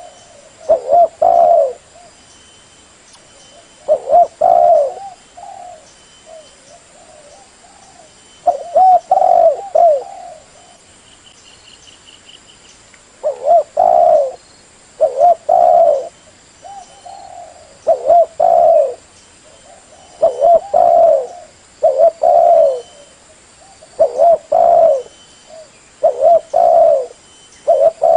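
Female spotted dove cooing over and over: short phrases of two or three low coos, repeated every second or two. This is the hen's call used to lure male doves to a trap.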